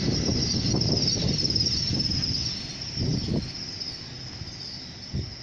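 Great Western Railway Class 800 intercity train running along the platform: the rumble of its wheels and running gear is loud at first and eases off over the last few seconds as the end of the train comes level, over a steady high-pitched whine. There are a couple of brief low bumps near the end.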